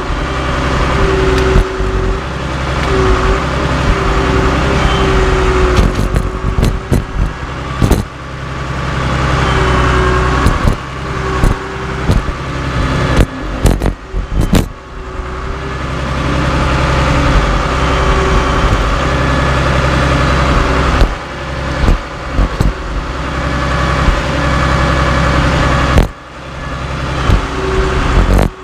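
Cat D3C LGP bulldozer's diesel engine running under varying load, swelling and easing, with a steady whine over it and many sharp metallic clanks and knocks.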